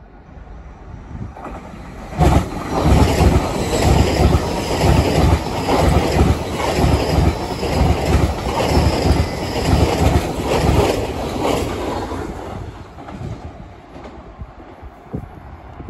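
A train passing: it builds up over the first couple of seconds, then gives about ten seconds of loud, rhythmic wheel clatter over the rails, and fades away near the end.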